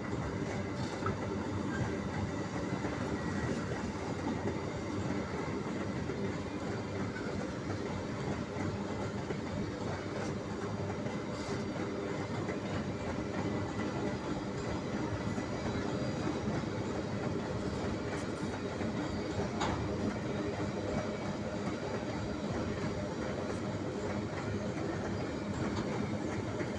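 Empty iron-ore train rolling past, a steady rolling noise from the wagons' wheels on the rails with a few sharp clicks.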